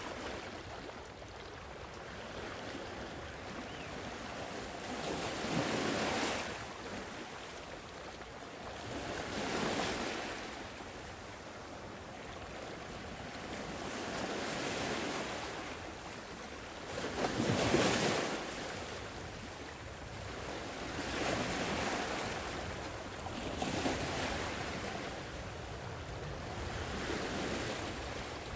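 Gentle sea waves breaking and washing up the shore, one swell every three to four seconds, the biggest about two-thirds of the way through.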